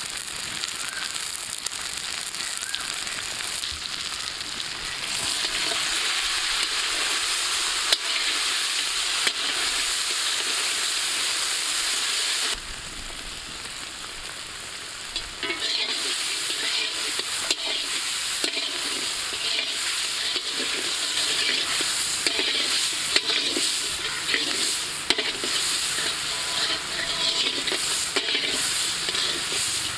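Shallots and garlic sizzling in hot oil in a black iron wok, with a metal spatula stirring and scraping across the pan. The sizzle drops to a quieter stretch for a few seconds near the middle, then picks up again with more stirring.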